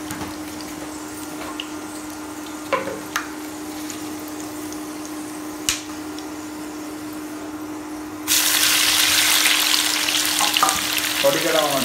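A low steady hiss with a faint hum and a few sharp clicks, then about eight seconds in a loud sizzle of hot oil in a cooking pot starts suddenly and keeps going, as food goes into the oil.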